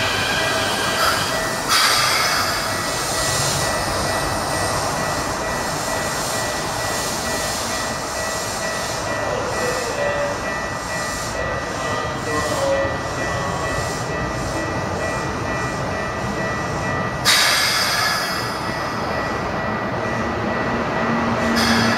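Keikyu Main Line electric train moving slowly through the station, a steady rumble with thin high squealing tones. A sudden loud hiss comes about two seconds in and again near the end.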